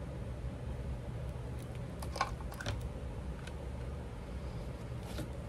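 Craft pieces being handled on a work surface: a few light clicks and paper rustles, the loudest about two seconds in, over a steady low hum.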